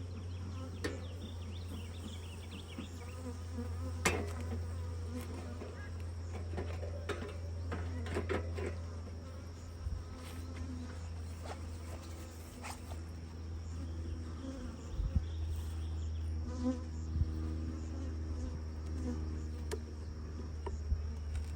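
Honeybees buzzing around an open hive, with several sharp clicks and knocks, the loudest about four seconds in.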